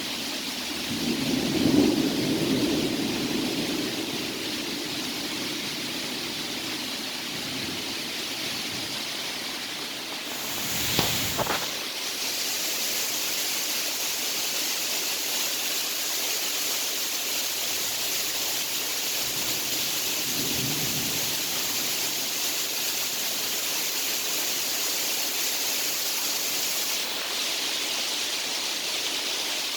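Thunderstorm: steady rain hiss, with a low roll of thunder fading over the first few seconds, a brief louder burst about eleven seconds in, and a faint low rumble around twenty seconds.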